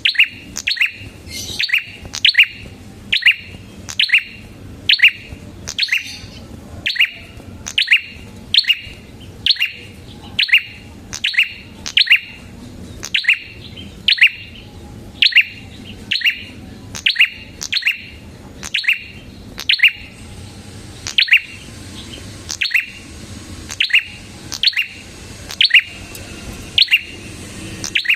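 A prenjak kepala merah singing steadily and vigorously: a rapid series of sharp, high chirps, about two a second, each a quick downward-sweeping note, repeated without pause.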